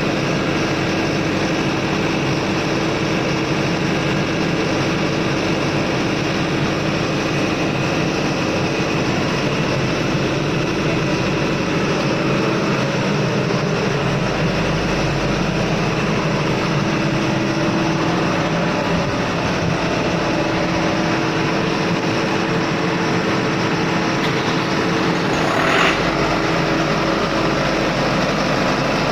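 Ship's engine-room machinery running steadily: a loud, even mechanical drone with steady tones in it, and one short louder burst near the end.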